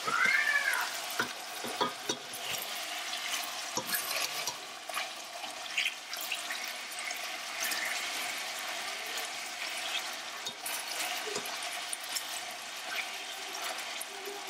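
Tuna steaks and sliced onion frying over medium heat in a stainless-steel pot: a steady soft sizzle, with scattered clicks of tongs against the pot and food. A short high squeak, rising then falling, comes just at the start and is the loudest sound.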